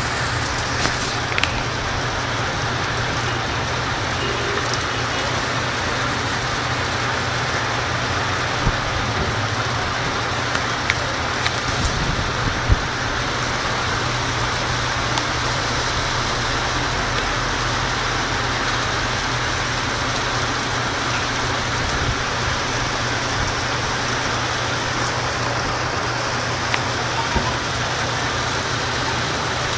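Heavy rain falling, a steady hiss with a few sharper taps of drops here and there.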